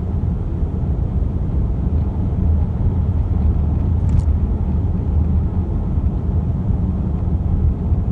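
Steady low rumble of road and engine noise inside a moving car's cabin, with a faint tick about four seconds in.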